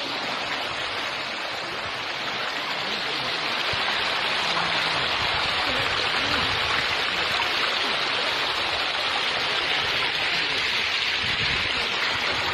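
Fast-flowing floodwater rushing: a steady, loud noise of moving water that gets a little louder about four seconds in.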